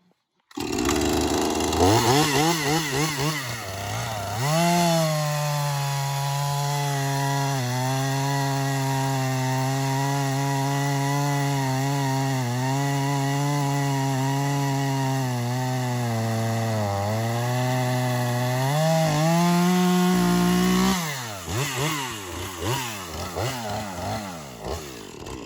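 Husqvarna two-stroke chainsaw with a pretty well worn, unsharpened chain cutting through a moderately dry log. The engine revs up, then settles to a steady lower pitch under load through the cut, dipping briefly a few times. Near the end its pitch rises as the cut is finished, and it drops back and winds down at lower level.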